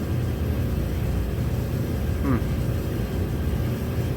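A 2010 Dodge Grand Caravan's 3.3-litre V6 idling with a steady low rumble. A brief voice-like sound comes about two seconds in.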